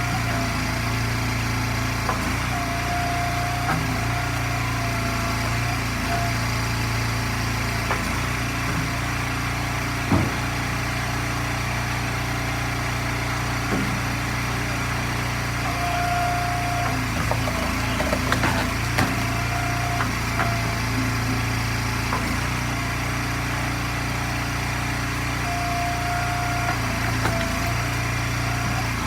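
Gas engine of an Eastonmade hydraulic firewood splitter running steadily, with a few sharp knocks over it, the loudest about ten seconds in and a cluster near the nineteen-second mark.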